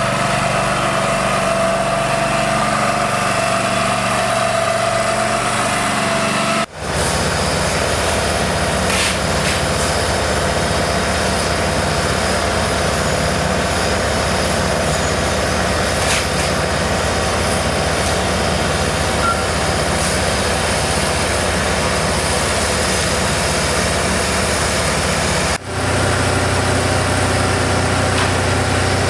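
Engines of road-resurfacing machinery running steadily, with two abrupt brief drop-outs, about a quarter of the way in and near the end.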